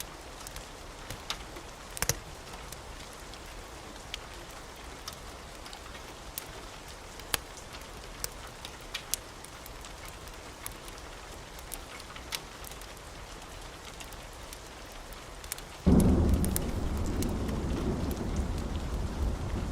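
Wood fire crackling: a soft steady hiss with scattered sharp pops and snaps. Near the end a loud deep rumble sets in suddenly and keeps going.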